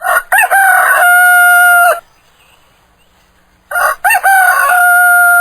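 Rooster crowing twice, each cock-a-doodle-doo about two seconds long and ending in a long held note.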